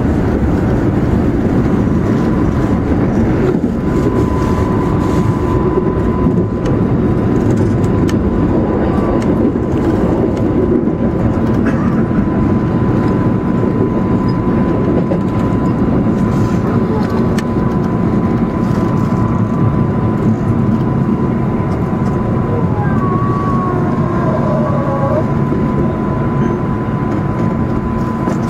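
JR West 221 series electric train running, heard from just behind the driver's cab: a steady rumble of wheels on rail, with a steady high tone joining about four seconds in. A few brief squeals come near the end as the train runs into a station.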